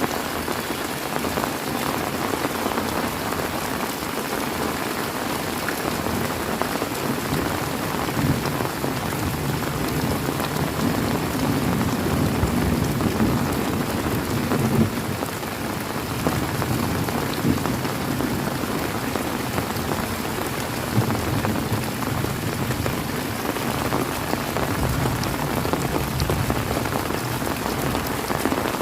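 Heavy rain falling steadily, with low rolling thunder rumbling in the background twice: first from about a third of the way in, then again towards the end.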